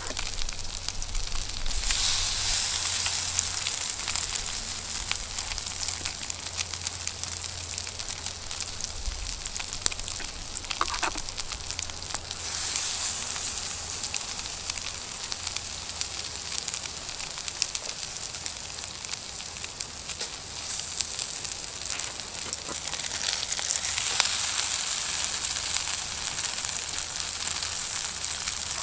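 Egg-soaked bread and beaten egg frying in oil in a pan over a campfire: a steady sizzle that swells louder about two seconds in and again near the end.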